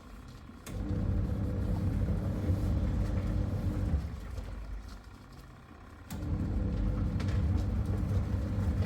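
A machine motor running with a steady low hum and rumble. It dies away about four seconds in and starts up again sharply about two seconds later.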